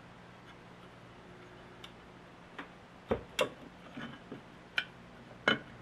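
Irregular light clicks and taps of small parts and tools being handled during reassembly of an old air compressor, about eight over a few seconds, the sharpest in the middle and near the end, over a faint steady low hum.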